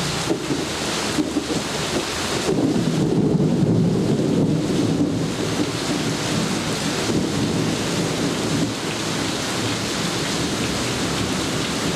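Steady heavy rain with a low rumble of thunder that swells from about two and a half seconds in and fades by about five seconds in.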